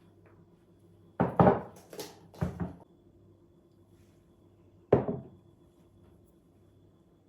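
Household objects being handled: a quick run of knocks and clatters about a second in, then a single sharp knock near the five-second mark.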